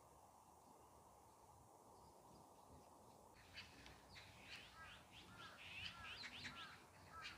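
Small birds chirping in quick, short sweeping notes, starting about halfway in over a faint steady background hum of outdoor noise.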